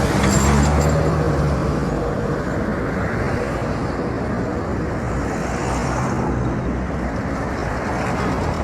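Motor vehicle running on a paved road, with steady engine hum and road noise.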